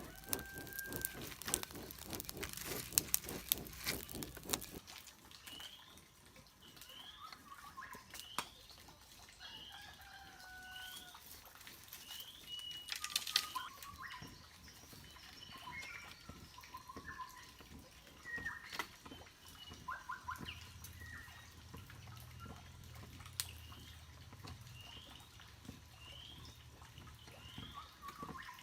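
Wild birds calling: a short rising chirp repeated about once a second, with other scattered whistled calls. For the first few seconds a quick run of sharp clicks and taps from hand work covers them.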